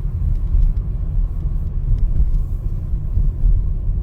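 Low, steady rumble of a vehicle driving on the road.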